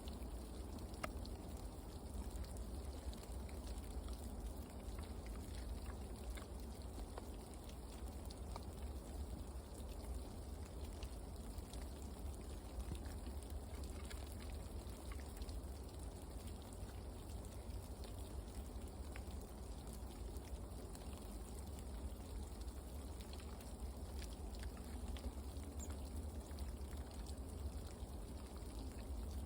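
Steady hiss of falling rain with scattered faint ticks of drops, over a low rumble.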